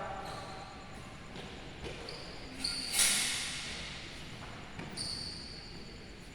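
Badminton play on an indoor court: shoes squeak on the floor several times, and about three seconds in a racket hits the shuttlecock sharply, the loudest sound, echoing briefly in the hall.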